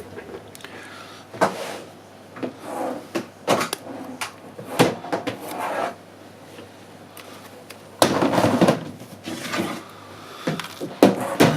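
Handling noises: irregular clicks, taps and knocks of small hard objects being picked up and set down, with a longer rustling, scraping stretch about eight seconds in.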